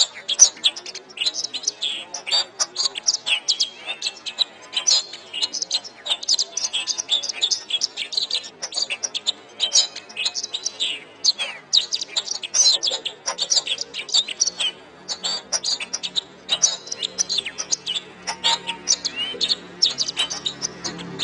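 Domestic canary singing a continuous, rapid warbling song of high chirps, sweeps and trills with hardly a pause. A low steady hum comes in under the song for the last few seconds.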